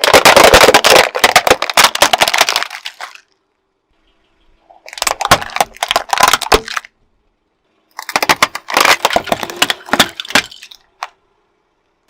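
Brittle objects crushed under a car tyre: three bursts of dense crackling and snapping, each two to three seconds long, with short silences between.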